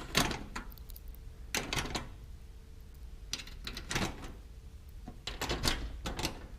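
Scattered knocks and clicks of a new hinge bracket being handled and held against an aluminium scaffold stair deck to check that its rivet holes line up, in a few small groups.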